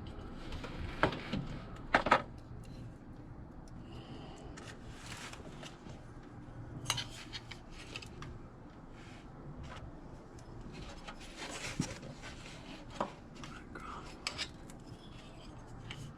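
Scattered metallic clinks, taps and knocks as a metal mounting bracket is handled and worked straight by hand, the loudest knocks about one and two seconds in.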